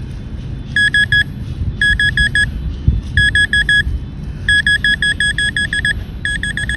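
Handheld metal-detecting pinpointer beeping in quick clusters of short, same-pitched beeps as it is swept over the dug soil to locate the target.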